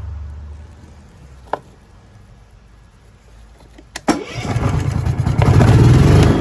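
AIRMAN PGW180SCL engine welder-generator being started: a sharp click about four seconds in, then the engine cranks, catches and settles into a loud, steady run.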